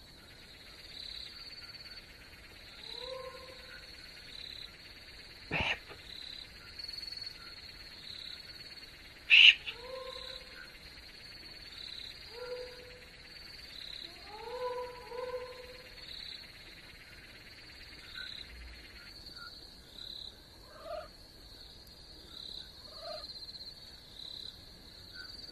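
Outdoor animal ambience: an insect chirping steadily about once a second, with short animal calls scattered through and two sharp knocks, the second one loud.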